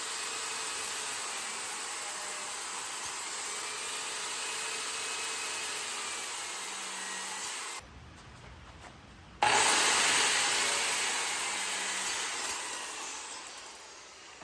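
Angle grinder with a cutting blade, steady through the first part as it cuts steel flat bar. It breaks off about eight seconds in, starts again louder a moment later and fades away gradually.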